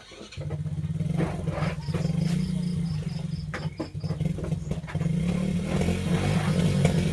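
A small engine comes on abruptly about half a second in and runs steadily with a low, rapid pulse, like a motorcycle engine running close by. Faint, evenly repeating insect chirps sound behind it.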